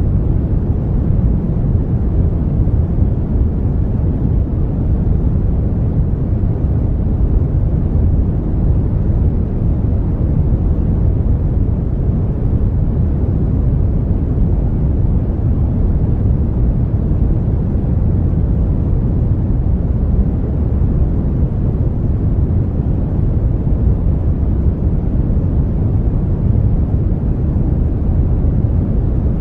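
Brown noise: a steady, deep rumbling hiss, strongest in the low end and falling away in the highs, even and unchanging throughout.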